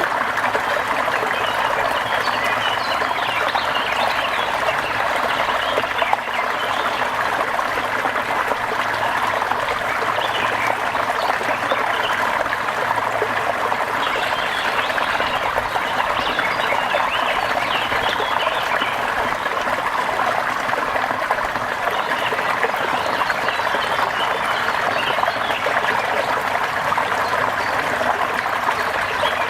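Steady rain falling, a dense, even hiss of drops that keeps up without a break.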